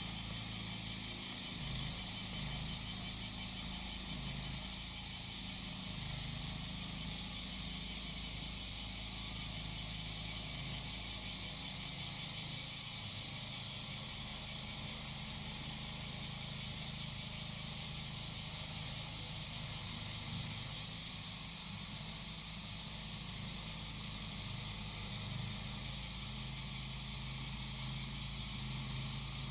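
Cicadas chirring steadily in a dense, pulsing chorus over the steady low hum of a grass-cutting machine's engine running at low speed.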